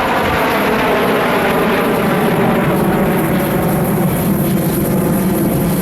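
Formation of Sukhoi twin-engine fighter jets flying past, the pitch of their engines sliding downward as they pass and then settling into a steady low rumble.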